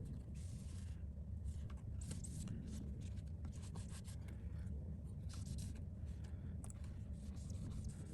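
Cloth wiping across a phone display panel in short scratchy rubbing strokes, over a steady low hum.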